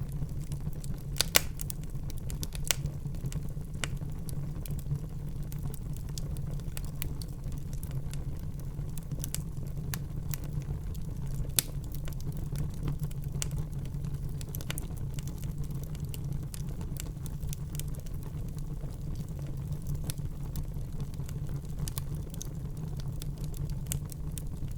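Fire burning in a fireplace: a steady low rumble with frequent crackles and pops, two of them louder, about a second in and about eleven seconds in.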